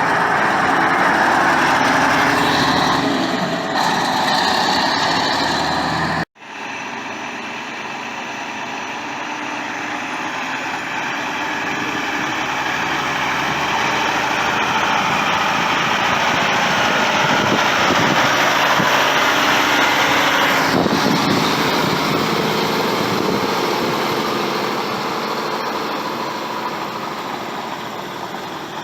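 Truck engines running. The sound cuts off abruptly about six seconds in, then engine noise swells slowly and fades again, as of a truck driving past.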